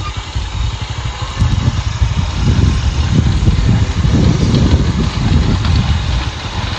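Motorcycle engine running while riding, growing louder about a second and a half in.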